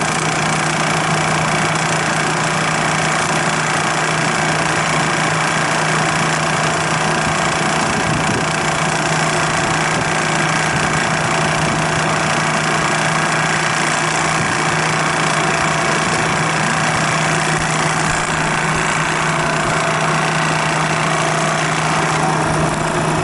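Refrigerant recovery machine running steadily with a constant low hum, pumping refrigerant out of the failed system.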